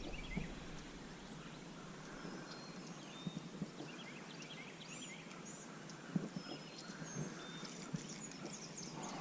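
Faint outdoor ambience of songbirds chirping, with wild turkeys gobbling in the distance several times, and a few soft knocks.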